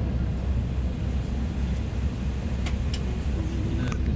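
Steady low rumble in the cabin of a Boeing 777-300ER before takeoff, with a few light clicks near the end.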